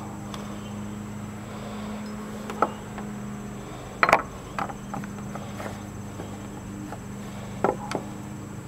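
A few sharp knocks and clicks of hand work on a door's latch and striker hardware, the loudest about four seconds in, over a steady low hum.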